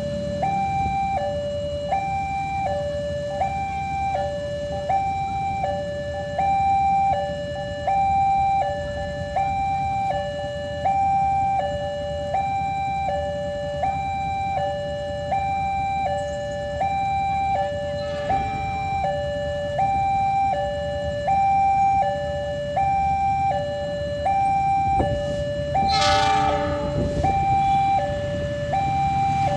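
Railway level-crossing warning alarm: an electronic two-tone signal switching steadily between a low and a high tone, about one pair a second, warning of an approaching train. A brief train horn blast sounds over it near the end.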